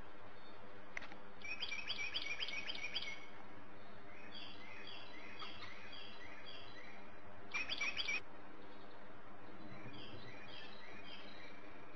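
Small birds chirping in several short runs of quick, high notes, over a steady background hiss.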